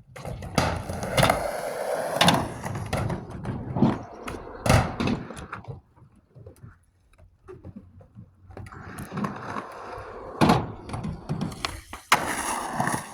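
Skateboard rolling, its wheels running with several sharp clacks and slaps of the board. A quieter stretch falls in the middle before the rolling picks up again.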